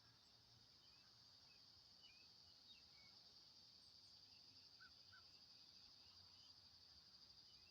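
Faint steady high-pitched insect chorus with a few soft, scattered bird chirps.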